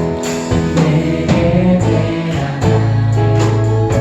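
Praise band playing an instrumental passage between sung lines, with guitar and a steady beat.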